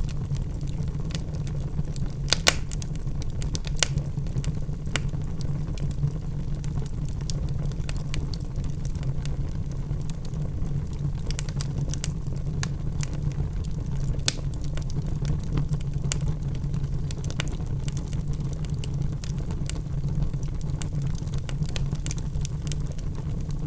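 Wood logs burning in a fireplace: a steady low rumble of flames with frequent small crackles and pops throughout, and a few sharper pops.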